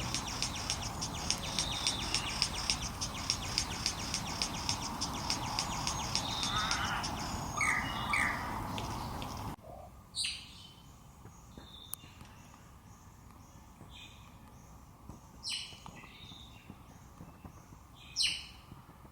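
Wild birds calling in forest. For the first half, a rapid, even run of high chirps plays over a noisy background; then, after a sudden cut to a much quieter background, a few separate high calls slide downward, the loudest near the end.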